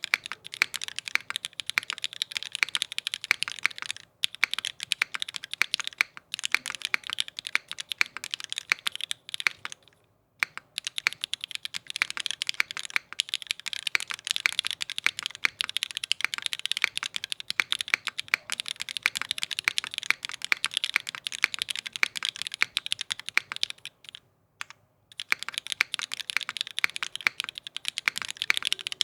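Continuous fast typing on a mechanical keyboard with linear Cherry Vintage Black switches, aluminium plate and GMK keycaps, dense key clacks with a few short pauses.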